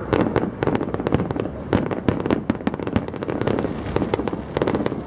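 Aerial fireworks going off in rapid succession: a dense barrage of bangs and crackles, many each second, over a continuous rumble.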